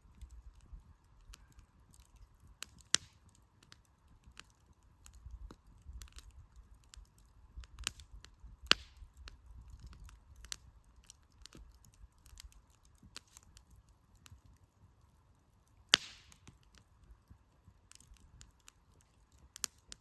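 Wood fire crackling, with scattered small snaps and a few sharp pops from the burning firewood, loudest about 3, 9 and 16 seconds in.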